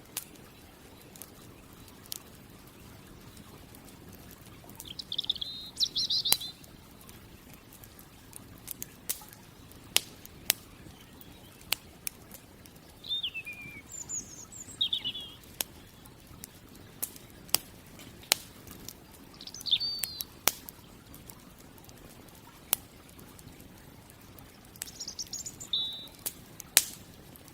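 Campfire crackling with scattered sharp pops, while a bird sings short high, twittering phrases every five or six seconds.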